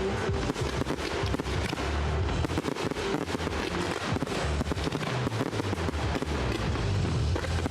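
Large fireworks display: a dense, continuous barrage of shell bursts and crackling, many bangs a second with no pause.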